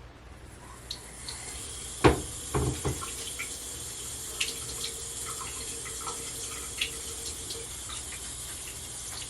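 Sink tap running, water pouring into the basin, starting about half a second in. A sharp knock comes about two seconds in and a couple of smaller clatters follow just after.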